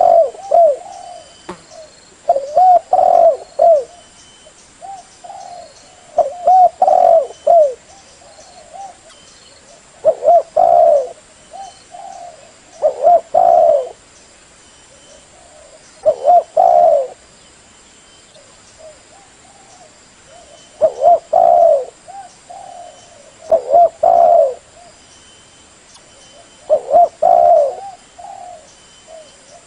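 Spotted dove cooing: a short phrase of a few notes, repeated nine times at intervals of about three to four seconds. This is the decoy call used to lure wild doves.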